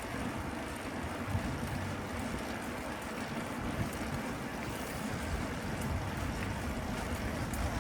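Steady rushing noise of riding a bicycle: wind on the microphone over a low road rumble.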